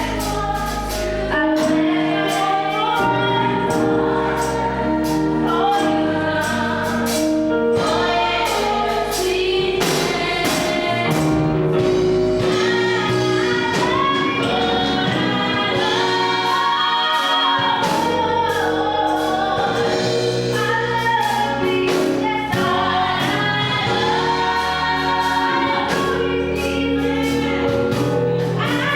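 A gospel choir singing with band accompaniment: sustained bass and drums under the voices.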